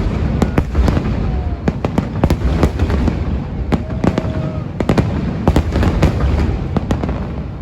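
Aerial fireworks display: many sharp bangs and crackles going off in quick, irregular succession over a continuous low rumble, with a few faint whistling tones.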